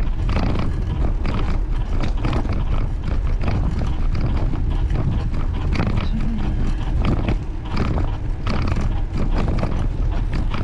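Wind buffeting the microphone of a bicycle-mounted camera while riding, a steady low rumble with a stream of small clicks and rattles from the camera shaking over the path.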